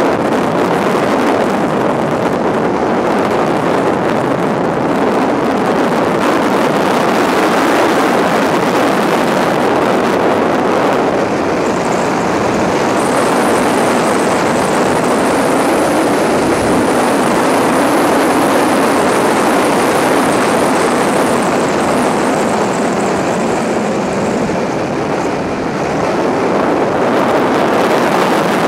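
Subaru WRX's turbocharged flat-four engine running hard at speed, heard from a camera on the bonnet, under heavy wind rush over the microphone. A faint high whine joins in through the middle stretch.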